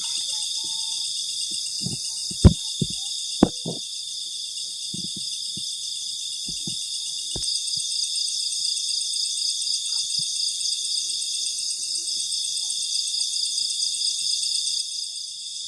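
Dense night chorus of crickets and other insects, a steady high pulsing trill. In the first half come a scatter of sharp clicks and knocks, the loudest about two and a half and three and a half seconds in.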